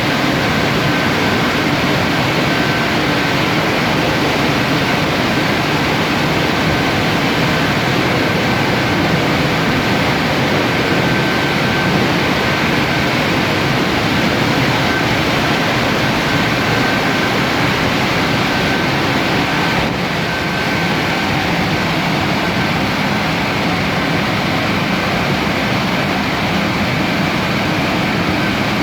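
Automatic car wash machinery running steadily: a dense, even rushing noise with a thin high whine that fades in and out.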